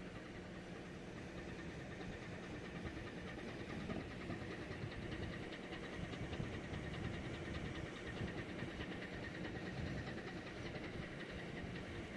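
Steady drone of a ship's engine mixed with wind and sea noise, heard from on board.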